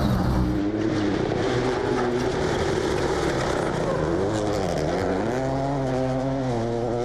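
Rally car engine at high revs, its pitch climbing and dropping through gear changes. The pitch dips about four seconds in, then rises again under acceleration. The audio changes abruptly about half a second in.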